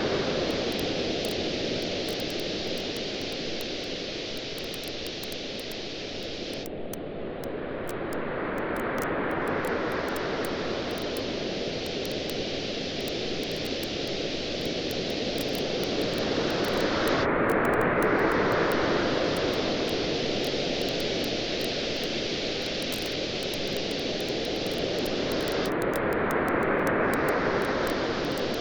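Waves washing onto a beach, rising and falling in slow surges about every nine seconds, with the light crackle of a campfire as small sharp pops throughout.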